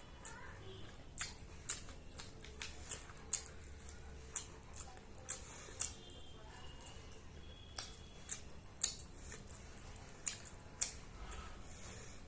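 Close-miked eating: wet chewing and lip-smacking clicks, irregular, about one or two a second.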